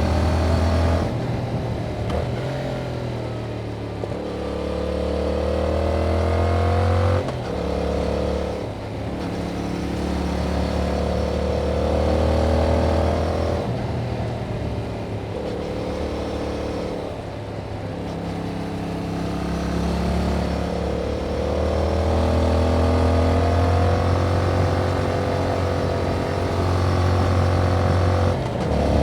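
2021 Yamaha MT-07's 689 cc parallel-twin engine running through its original exhaust with the dB killer removed, as the bike is ridden: the engine note climbs in pitch, breaks and drops at gear changes about 1, 7, 14, 20 and 28 seconds in, and holds steady between them.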